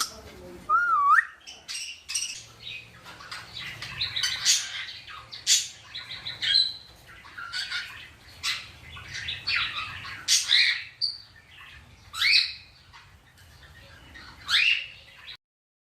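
Indian ringneck parakeet calling: a wavering whistle about a second in, then a run of chirps and squawks with a few sharp rising calls, cutting off suddenly just before the end.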